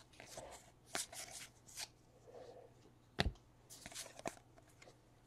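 2017-18 Donruss basketball trading cards being flipped through by hand: soft card-on-card rustles with a few sharp clicks, the sharpest about three seconds in.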